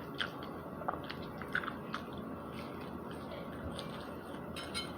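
A person chewing spicy chicken McNuggets, with scattered short crunches and mouth clicks.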